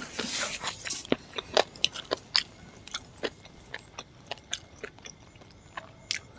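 Close-miked chewing of puri and chicken curry: irregular wet mouth clicks and smacks, frequent at first and thinning out toward the end, with soft squelches as fingers tear a curry-soaked puri.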